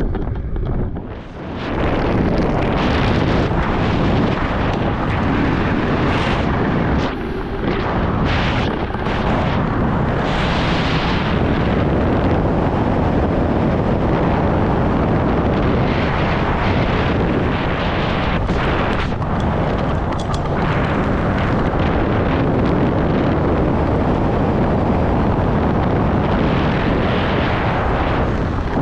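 Loud, steady wind roar of skydiving freefall rushing over the microphone, with brief dips about a second in and around seven seconds.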